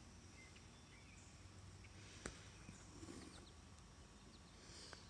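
Near silence with faint, scattered short bird chirps and a single soft click about two seconds in.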